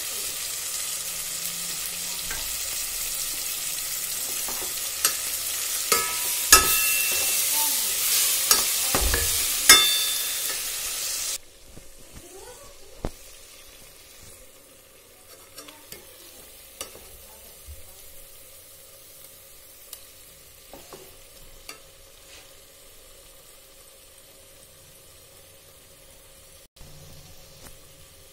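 Red masala paste frying and sizzling in oil in a steel pot while a metal spoon stirs it, with the spoon clinking and tapping against the pot. About eleven seconds in, the loud sizzle cuts off suddenly, leaving only occasional quiet scrapes and taps of the spoon.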